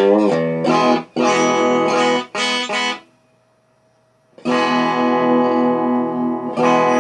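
Telecaster-style electric guitar strummed through an amp: a few short chords, a pause of about a second and a half, then two long ringing chords. The pickup has just been raised closer to the low strings to give a fuller, less tinny tone.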